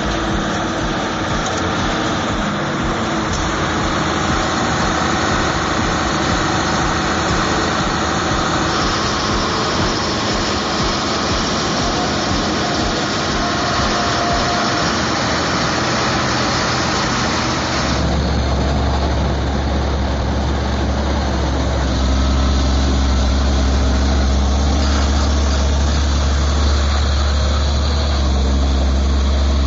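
Heavy diesel machinery running steadily with dense mechanical noise. About two thirds of the way in, the sound changes abruptly to a strong, steady low engine hum.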